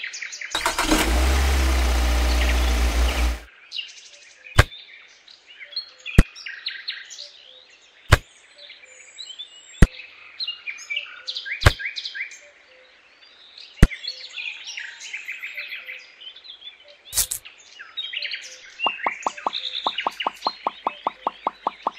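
Small stone pebbles pour out of a tipping toy dump truck's bed in one loud rush of about three seconds. Then come single clicks every second or two as pebbles are set down one at a time, over steady bird chirping. Near the end a fast, even ticking begins.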